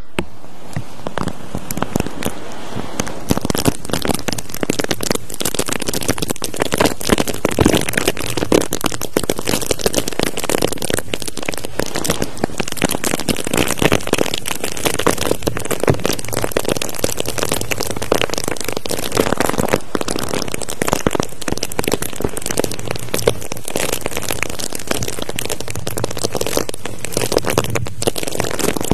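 Dense, continuous crackling and crinkling close to the microphone: many small clicks packed tightly together at an even level, an ASMR ear-examination trigger.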